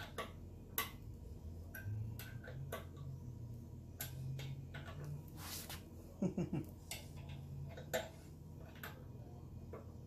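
Light metallic clicks and taps of hand tools, with a short quick run of clicks a little past halfway, as an Allen wrench is worked on the motorcycle's wheel bolts.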